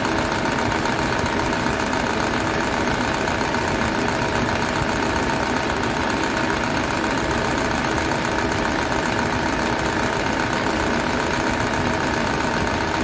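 Toyota Starlet engine idling with the air conditioning on, running rough with a steady diesel-like "tok tok tok" knock. The speaker puts the noise down to a worn AC compressor whose internals have gone loose.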